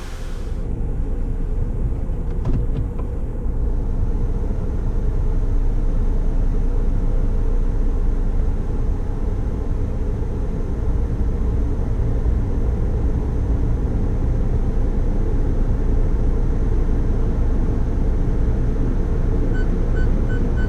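Car engine heard from inside the cabin: a low, steady rumble, with a row of short beeps near the end.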